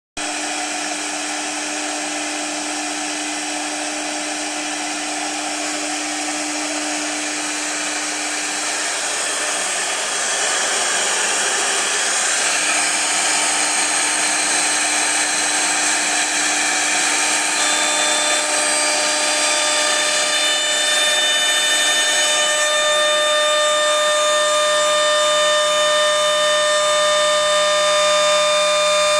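CNC router spindle running and milling acrylic sheet: a steady high whine over a hissing cutting noise. The whine grows louder and gains more pitched tones partway through.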